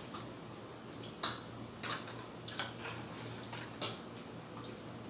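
A few sharp clinks and clicks of dishes and eating utensils, spaced irregularly about a second or less apart.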